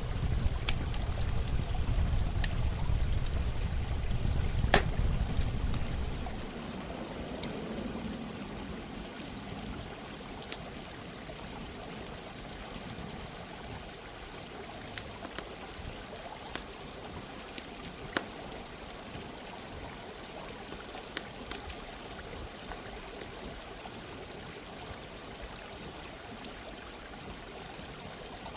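Steady running water mixed with a campfire, with sharp crackles and pops scattered throughout. A low rumble under it drops away about six seconds in.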